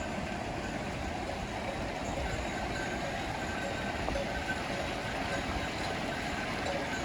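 Steady rushing of running water, with the faint, intermittent ringing of livestock bells from a flock of goats or sheep.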